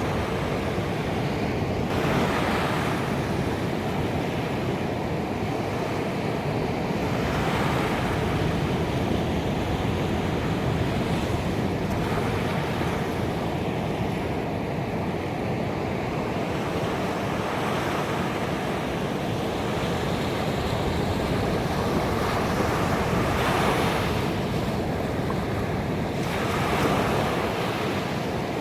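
Ocean waves breaking on a beach, a continuous wash of surf with waves swelling and crashing every few seconds.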